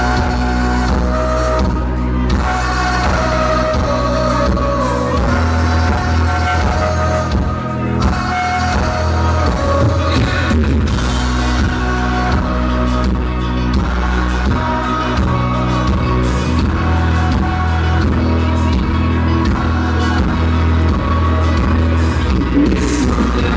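Live country band playing a song loud through a PA, with singing over the band. The recording is poor, with a heavy, boomy low end.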